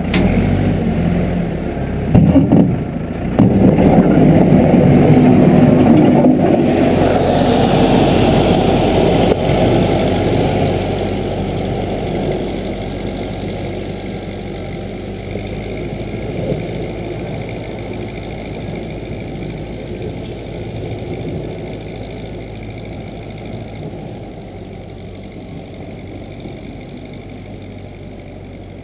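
Case 580B backhoe's engine running, loudest early on after a couple of short sharp knocks about two seconds in, then growing steadily quieter over the rest of the stretch.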